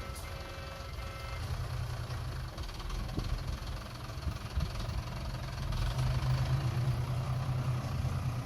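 Diesel engine of small earthmoving machinery running, growing louder about six seconds in, with a reversing beeper sounding over it in the first second or so.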